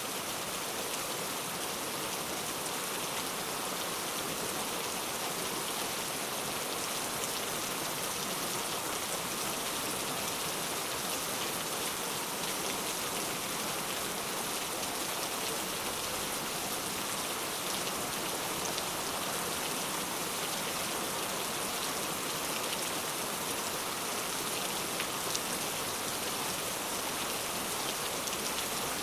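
Heavy rain falling steadily: a continuous, even hiss of many raindrops hitting surfaces, with no change in strength.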